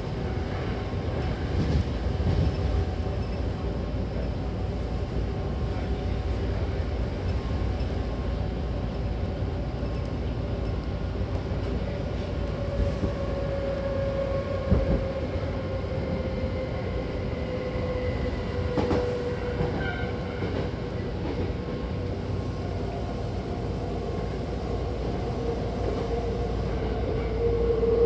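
Hankyu Takarazuka Line train car running, heard from inside: a steady rumble of wheels on the rails, with one sharp knock about halfway and a humming tone that slowly falls in pitch over the second half.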